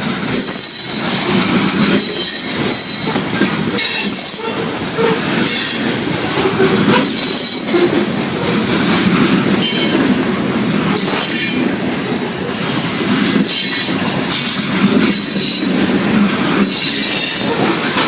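Freight train cars rolling past, their wheels clacking over rail joints in an irregular run of knocks, with short high-pitched flange squeals.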